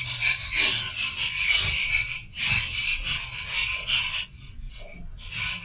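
Small die-cast toy monster truck rattling and scraping down a rough outdoor track, a dense raspy clatter that thins out about four seconds in, with one more short scrape near the end.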